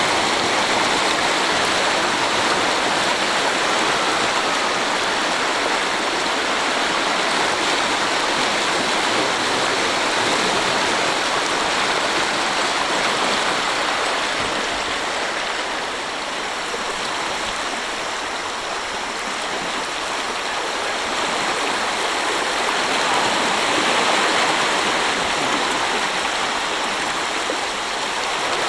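A river in flood, its swollen, fast-flowing water rushing past in a steady, loud wash of noise that eases slightly about halfway through.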